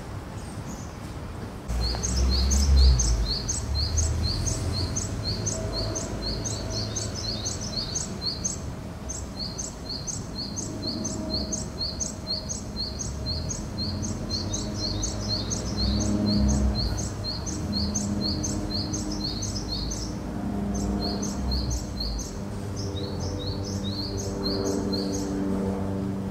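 Songbirds chirping in a fast, almost unbroken run of short, high, falling notes, starting about two seconds in. Underneath is a low outdoor rumble with a faint hum.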